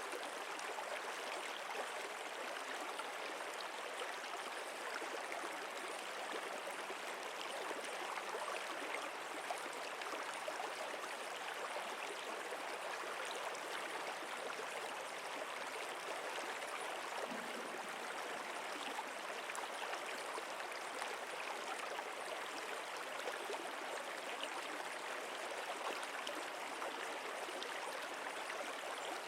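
Flowing stream water, a steady even rushing with fine trickling detail that does not change.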